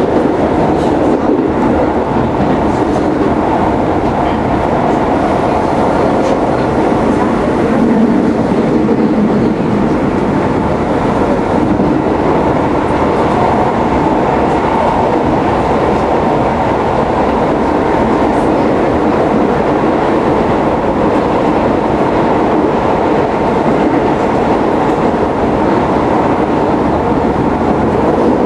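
Keisei 3700 series electric train running at speed, heard from inside the car: a steady rumble of wheels on the rails.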